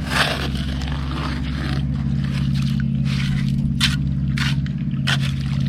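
Clam digging in beach gravel: a hand tool or hands scraping through gravel and shells in about six short strokes, over a steady low hum.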